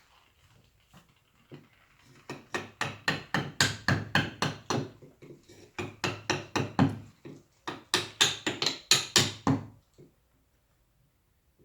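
Wooden carving mallet tapping a chisel into wood in quick light blows, about five a second. Two runs of strikes with a short break between them, stopping shortly before the end.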